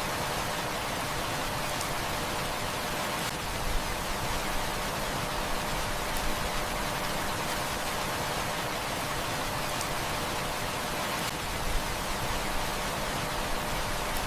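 Heavy rain falling steadily, with a few sharp crackles from a wood fire, the loudest about four seconds in and near the end.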